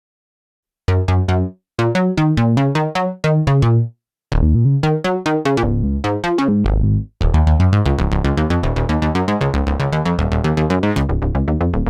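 OB-6 polyphonic analog synthesizer playing a sequenced custom patch. After about a second of silence, fast repeated notes come in short phrases with gaps, then from about seven seconds in they run on as one continuous rapid pulsing sequence, brighter at the top.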